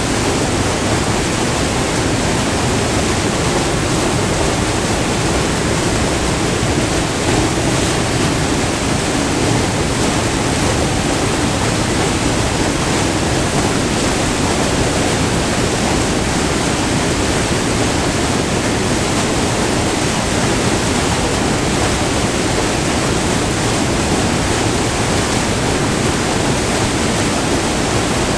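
Steady rushing of white water pouring over a short, multi-tiered waterfall on a river, recorded up close.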